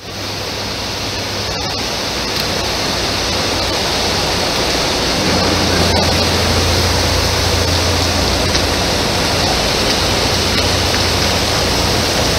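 Heavy rain pouring down in a steady, dense hiss that cuts in abruptly, with a low rumble underneath.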